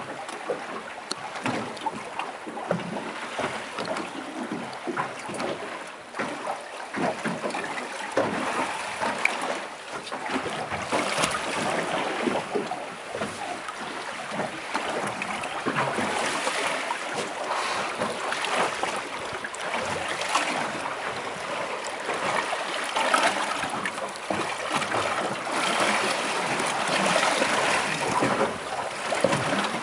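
Sea water splashing and lapping against a boat's hull, a continuous crackly wash dotted with small slaps.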